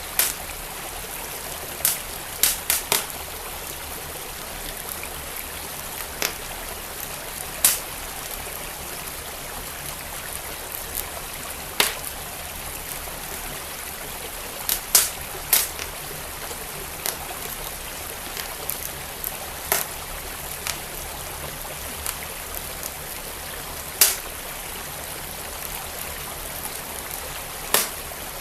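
Wood fire crackling, with sharp irregular pops and snaps, over the steady rush of a flowing stream.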